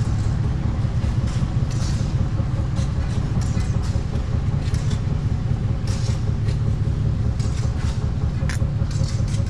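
An engine running steadily at an even speed: a continuous low rumble, with scattered light clicks and ticks over it.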